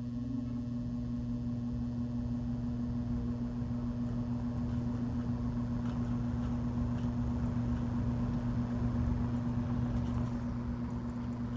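Vintage Kisco box fan's electric motor and aluminum blade spinning up: a steady motor hum under a rush of air that slowly grows louder. The owner says the motor sounds like it needs oil.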